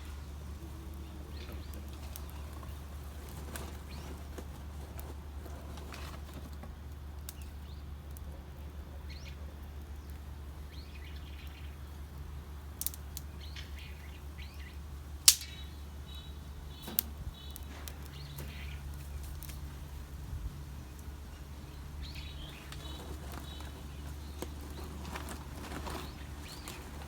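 Wood fire crackling in a homemade fire pit, with a few sharp pops, the loudest about halfway through. Birds chirp now and then over a steady low hum.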